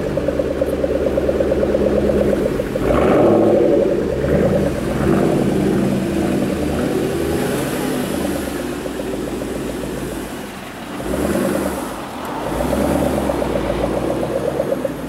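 Shelby GT500KR's supercharged V8 running under load on the move, swelling about three seconds in, easing off twice briefly in the second half, then pulling again.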